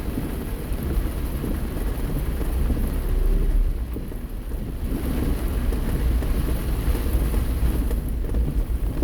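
Heavy rain pattering steadily on a moving car, heard from inside the cabin, over a constant low rumble of the car and road.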